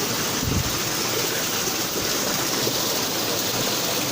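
Waterfall's rushing water, a steady hiss. About half a second in there is a brief low thud.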